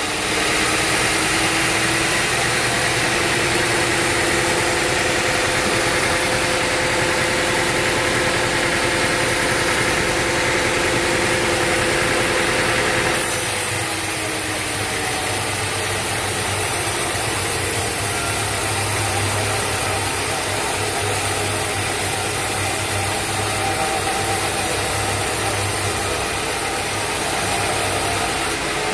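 Sawmill machinery running steadily: a motor drone with a held whine, changing character about halfway through.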